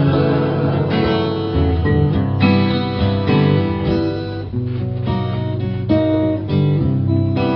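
Acoustic guitar strumming and picking chords in an instrumental passage of a folk song, with the chords changing every second or so.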